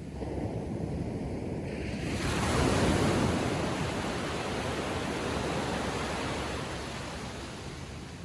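Small ocean wave breaking on the beach, its wash swelling about two seconds in, peaking near three seconds and slowly fading as it runs up the sand.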